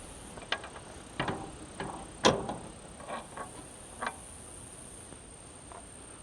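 A string of short metal clicks and clanks as parts are handled and fitted back onto a tractor, about seven in the first four seconds, the loudest about two seconds in.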